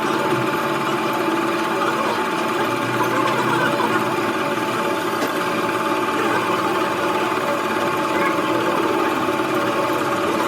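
A machine running steadily, a continuous mechanical whir with several constant tones that holds an even level throughout.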